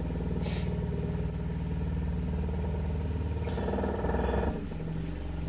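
An RV's 12-volt water pump running with a steady, rapidly pulsing hum as it draws antifreeze through the trailer's water lines. A brief hiss joins about three and a half seconds in, and the hum shifts in tone about a second later.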